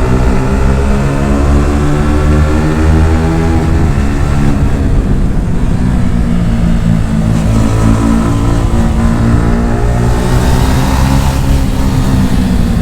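Yamaha R15 V4's 155 cc single-cylinder engine running through an aftermarket Akrapovic exhaust. Its pitch falls off over the first few seconds, then rises again later as the bike pulls away.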